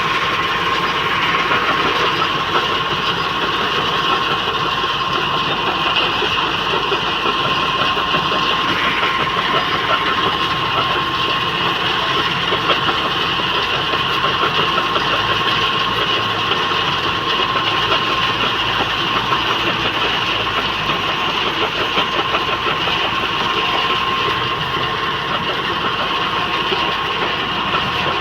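Diesel engine of heavy earthmoving machinery running steadily, a dense loud mechanical noise with a constant whine.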